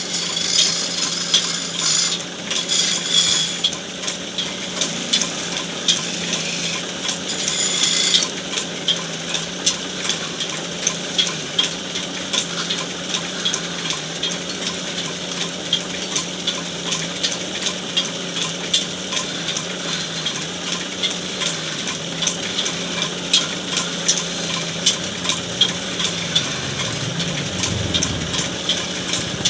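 Wood lathe running with a steady motor hum while a cutting tool scrapes and chatters against the spinning wood of a charpai leg, with rapid small ticks throughout; the hum drops near the end.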